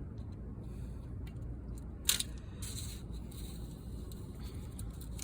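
Faint handling sounds of window screen repair: light scraping and clicks as the screen mesh is worked under tension, with one sharp click about two seconds in, over a steady low hum.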